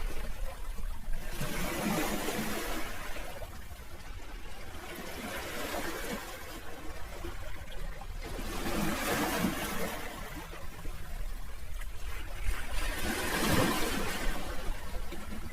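Sea waves washing onto the shore, the rush of water swelling and ebbing every few seconds, with the strongest surge near the end.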